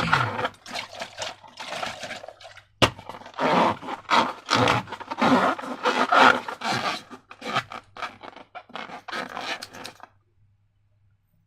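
Slime being worked by hand or tool: irregular short scraping and rubbing strokes, with one sharp click about three seconds in. The sound cuts off abruptly to silence about ten seconds in.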